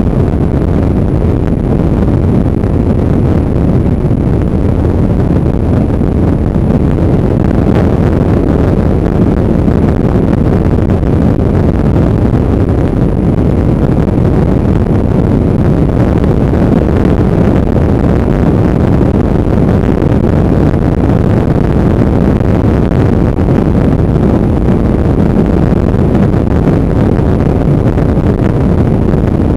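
Loud, steady wind noise on the microphone of a motorcycle riding at speed, with the bike's engine and road noise underneath.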